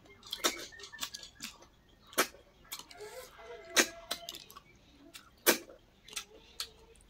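Eating sounds at close range: irregular sharp clicks and taps of food and dishes, the loudest a few seconds apart.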